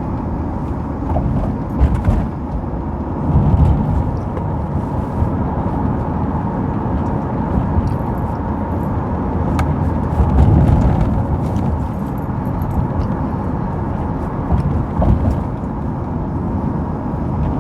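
Road and engine noise of a moving car heard inside the cabin: a steady low rumble that swells twice.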